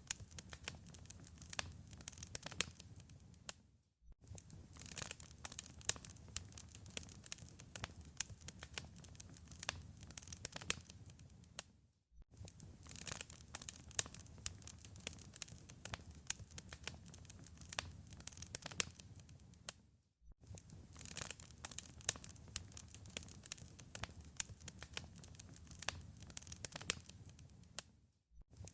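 Wood fire crackling in a fireplace: dense, irregular pops and snaps over a soft low hiss. It cuts out briefly about every eight seconds.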